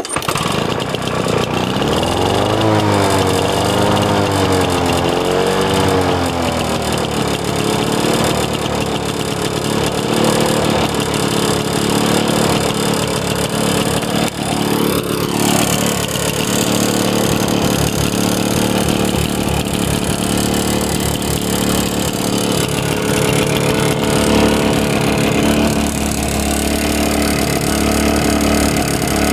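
Lawn-Boy 10550's DuraForce two-stroke mower engine starting and running. Its speed wavers up and down for a few seconds after it catches, then settles into a steady run.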